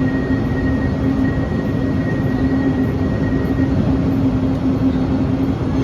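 Quito Metro train running at steady speed: an even rail rumble with a constant low hum throughout, and a faint higher tone that fades out about halfway.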